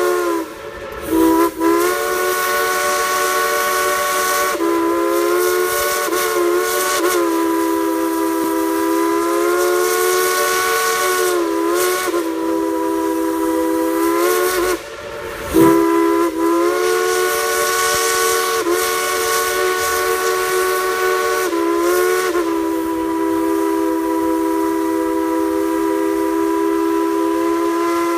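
Dollywood Express steam locomotive's whistle blowing long, nearly unbroken blasts, its pitch sagging and rising as the whistle is worked, with brief breaks about a second in and about halfway through.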